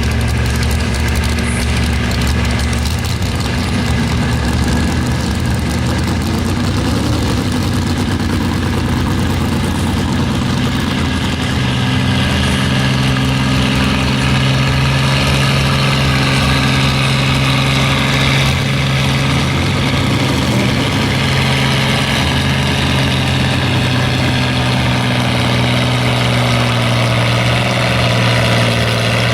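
Engine of a modified pulling tractor running loudly and steadily, its pitch stepping up about twelve seconds in.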